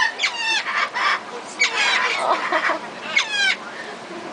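A bird calling three times, about a second and a half apart, each call sliding down in pitch.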